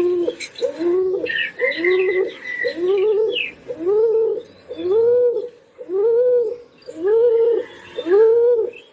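A pigeon cooing over and over in a steady rhythm, about one and a half rising-and-falling coos a second. A run of higher, quicker chirps sounds over it from about one to three and a half seconds in.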